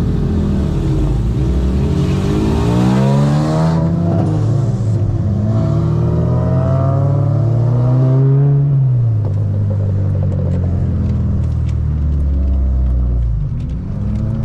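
Bolt-on-modified 8th-generation Honda Civic Si's 2.0-litre four-cylinder engine, loud inside the cabin, pulling through the gears: the engine note climbs twice, dropping back at each upshift, then settles to a lower, steadier cruise.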